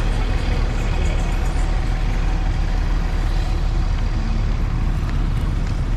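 Steady vehicle rumble of engine and road noise, even in level throughout with no distinct events.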